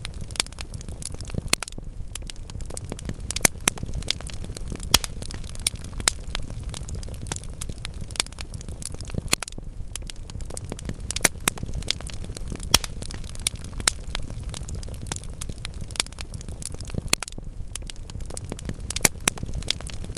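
Wood fire burning in a fireplace: a steady low rumble of flames with many irregular crackles and sharp pops from the burning logs.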